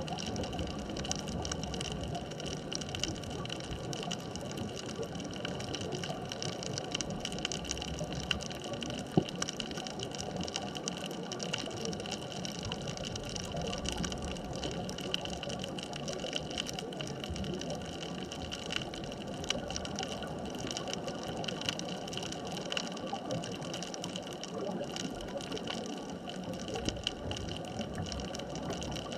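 Underwater ambient sound at an artificial reef: a steady hiss with a dense, fine crackle of tiny clicks, and one sharper click about nine seconds in.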